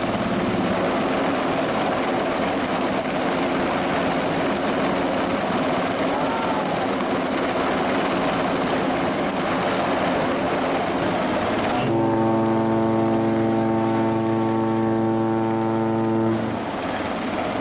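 A steady rushing noise, then a ship's horn blows one long, deep blast of about four seconds near the end.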